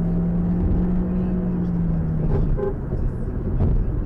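Car cabin and road noise from a dashcam, with a steady low drone that stops about two and a half seconds in and a sharp click near the end.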